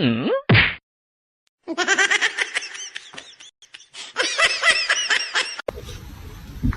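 High-pitched laughter in quick repeated bursts, running for about four seconds after a short pitched call at the start. A steady hiss follows near the end.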